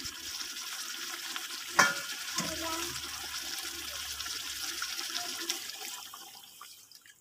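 Chicken and chilli spice paste sizzling in a wok, with one sharp knock about two seconds in. Near the end coconut milk is poured in and the sizzle dies down.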